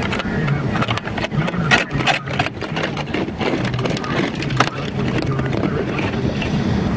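Car driving in a blizzard: a steady engine and road drone, with a run of irregular sharp clicks and crackles from about one to five seconds in.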